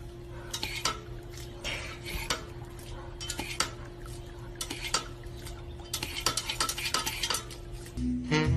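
Irregular clinks and scrapes of hard objects, like utensils against dishes, over a steady hum.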